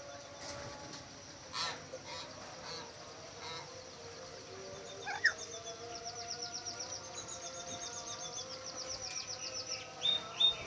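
Caged birds calling: a few scattered squawks, one loud rising call about halfway, then a fast run of high, evenly repeated notes lasting about four seconds, and two sharp calls near the end.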